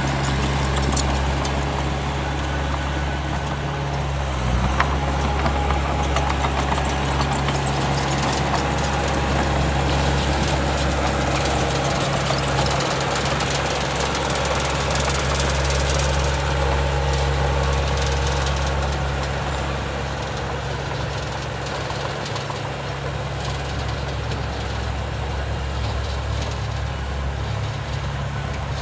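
Heavy diesel engine of earthmoving machinery running at a steady speed, with light clicking and rattling at times.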